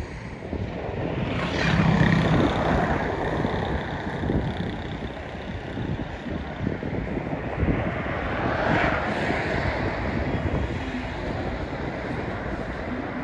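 Outdoor road traffic: vehicles pass about two seconds in and again around nine seconds in, over a steady rumble with wind buffeting the microphone.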